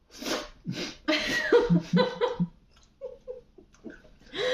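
People laughing in several bursts over the first two and a half seconds, with another short burst of laughter near the end.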